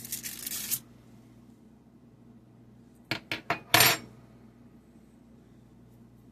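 A metal fork clinking and scraping while flattening peanut butter cookie dough balls: a rustling scrape at the start, then a few sharp clinks and a louder scrape about three to four seconds in.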